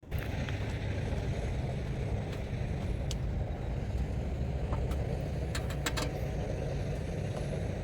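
Steady low rumble of a vehicle, heard as a constant drone with a few light clicks about two-thirds of the way through.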